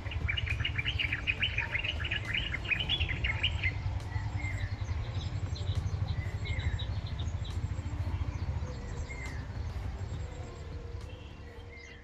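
Small birds chirping: a quick run of high chirps for the first few seconds, then scattered single calls, over a steady low rumble. The sound fades near the end.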